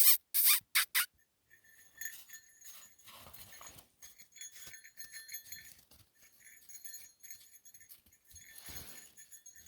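A dog's collar jingling faintly and on and off as the dog moves about, after a few sharp knocks or scuffs in the first second.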